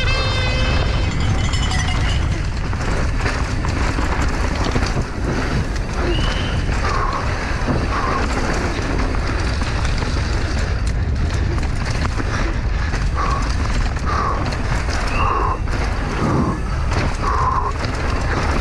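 Downhill mountain bike at race speed heard from an onboard GoPro: steady wind rush on the microphone, with the bike's chain and frame rattling and knocking and the tyres scrabbling over dry, loose dirt.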